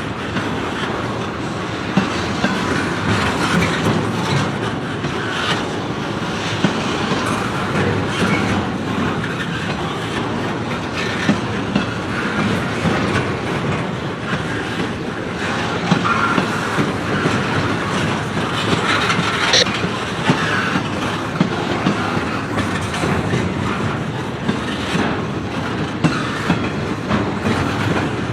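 Freight train cars rolling past, steel wheels clacking over the rail joints with irregular sharp clicks. A brief high wheel squeal comes about two-thirds of the way through.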